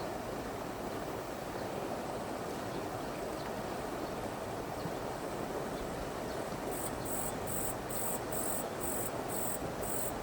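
Steady rush of a flowing river. From about two-thirds of the way in, an insect chirps in short, even, high-pitched pulses, about two or three a second.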